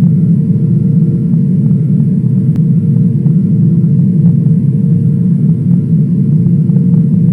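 Steady airliner cabin noise: a loud, unbroken low rumble of engines and airflow heard from inside the passenger cabin, with a faint steady high hum above it.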